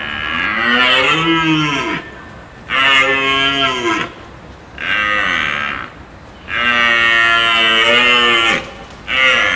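Cow mooing repeatedly: five long calls with short gaps between them, each one's pitch rising and then falling, the last starting near the end.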